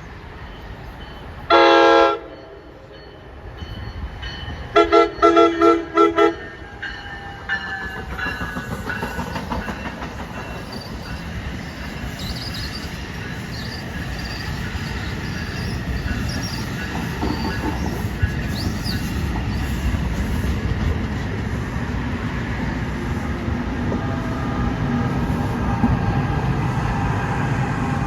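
Arriving New Jersey Transit commuter train sounding its horn, first one blast and then about four quick short ones a few seconds later. Then a rumble of wheels on rail that grows steadily louder as the train rolls in.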